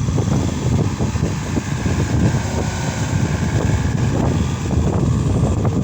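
Case SR200 skid steer's diesel engine running steadily, with a dense low rumble.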